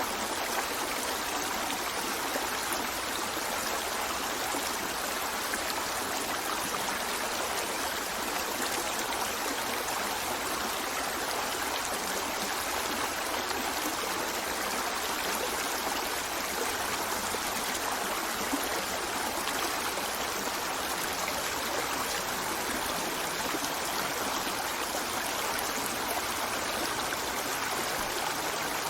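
Running water of a stream, a steady, even flow with no change and no other sound standing out.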